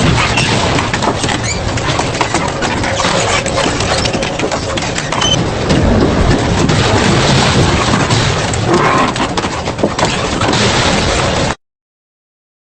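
Double-shaft industrial shredder tearing up metal: a loud, continuous grinding noise packed with sharp cracks and snaps, which cuts off abruptly near the end.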